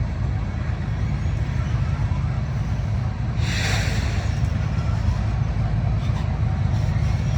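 Loaded BNSF coal train rolling past with a steady low rumble, its diesel locomotives working hard under a full load on a slight upgrade. A short hiss comes in about halfway through.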